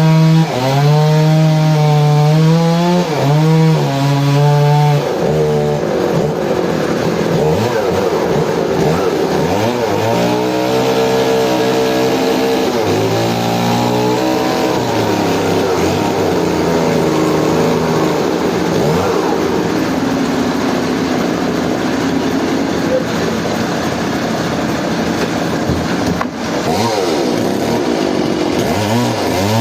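Engine-driven saw cutting through a large log. The engine's pitch sags and recovers repeatedly as the blade bogs down in the wood, and climbs again near the end.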